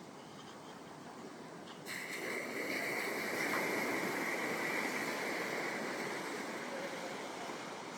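Ocean surf on a beach: a steady wash of water, with a louder wave breaking about two seconds in and slowly easing off.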